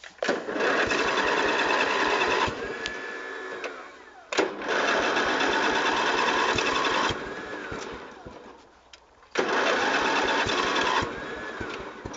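Lawn tractor engine being cranked by its electric starter three times, each try about two to three seconds long and then winding down, without the engine catching.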